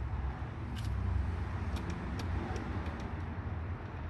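A few scattered sharp metallic clicks of a wrench working a throttle body mounting bolt loose, over a steady low rumble.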